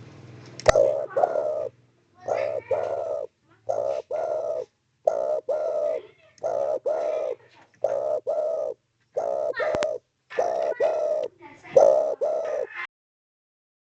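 A spotted dove (derkuku) cooing: about nine short phrases of its rolling coo in a steady series, then falling silent near the end. Two faint clicks sound among the calls.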